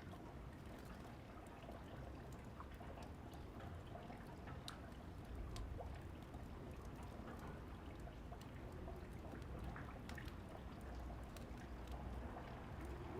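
Steady rain falling, mixed with the sparse, irregular crackles and pops of a fireplace.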